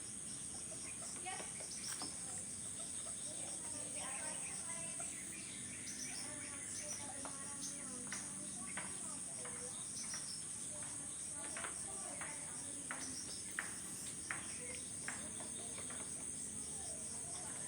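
Steady high-pitched drone of insects, with scattered sharp ticks and short bird chirps over it.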